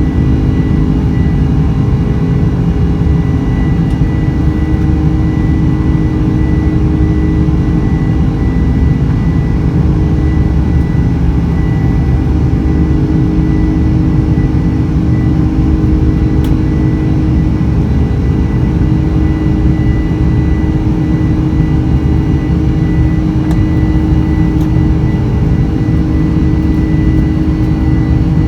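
Boeing 747-400 cabin noise during the climb after takeoff: the jet engines and rushing air make a loud, steady drone, with a thin steady high tone riding on top.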